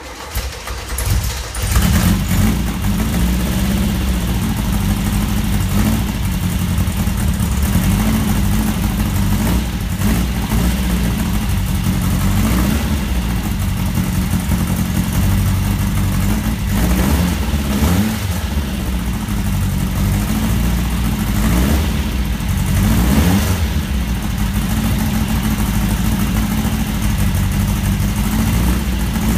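Freshly rebuilt racing-car engine catching in the first second or two, then running on its first run after the rebuild. Its revs rise and fall every few seconds as the throttle is worked by hand at the carburettor.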